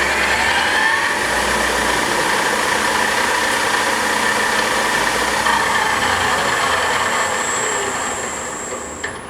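Spindle and headstock gearing of a Southwestern Industries TRL1840SX CNC lathe in low range, running up to its top low-range speed of 850 RPM: a steady mechanical whine with several tones that rise at first. Near the end the pitch falls and the sound gets quieter as the spindle winds down, with a short click just before it fades.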